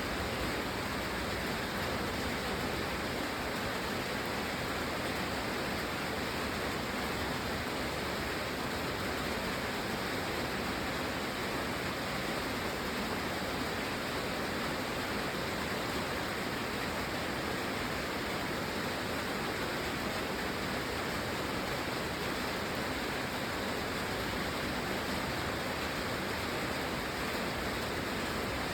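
Steady rain falling, an even unbroken hiss with no single drops or splashes standing out.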